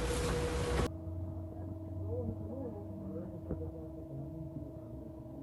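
A vehicle's steady engine hum with faint voices. About a second in, louder noise cuts off abruptly and the quieter hum carries on.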